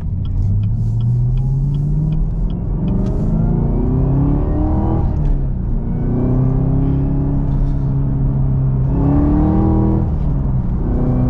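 Supercharged 6.2-litre V8 of a Camaro ZL1 with a six-speed manual, accelerating, heard from inside the car. The engine note rises through a gear, drops at an upshift about five seconds in, holds steady for a few seconds, then rises and drops once more near the end.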